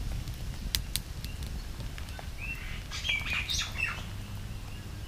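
Small birds chirping in short quick notes in the second half, over a steady low rumble, with a couple of sharp clicks about a second in.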